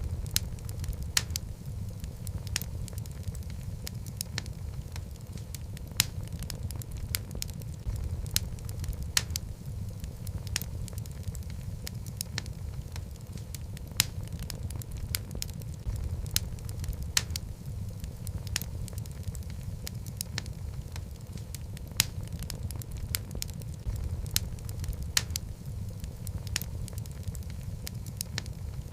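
Wood fire burning in a fireplace: a steady low rumble of flames with frequent crackles and a few sharper pops from the burning logs.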